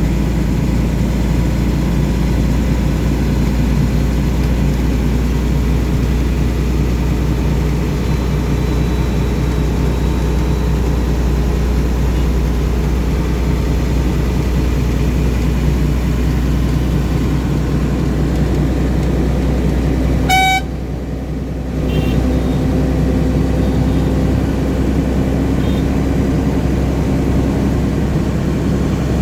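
Truck engine running steadily on the move, a constant low rumble. About two-thirds of the way through there is a short horn toot, then the rumble briefly drops before carrying on.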